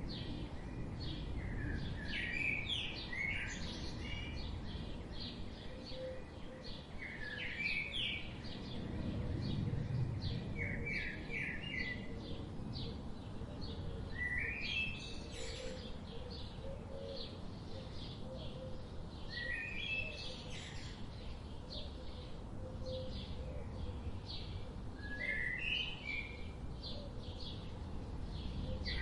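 Songbirds chirping and singing: a short song phrase every few seconds over a steady stream of quick, high chirps, with a steady low rumble underneath.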